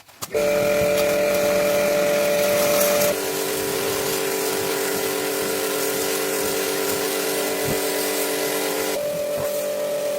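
A machine running steadily, with a constant hum of a few fixed tones over a broad hiss. It starts abruptly, and its pitch shifts twice, about three seconds in and again near the end.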